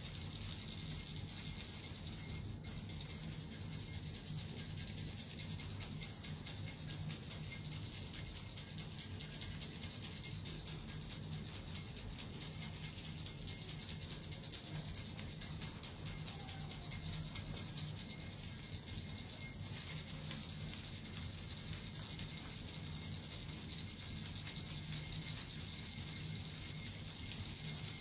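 Small jingle bells (suzu) shaken continuously, a dense, unbroken jingling with a steady bright ring.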